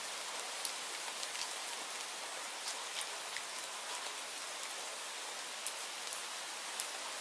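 Steady rain: a dense, even hiss with a louder drop ticking sharply every second or so.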